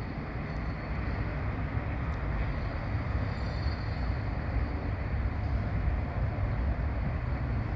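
Steady low rumble of a running vehicle, even throughout with no distinct impacts.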